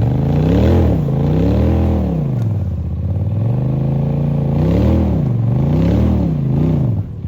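Side-by-side UTV engine revving hard, its pitch rising and falling about five times as the throttle is floored and eased on a steep climb, dropping off abruptly near the end.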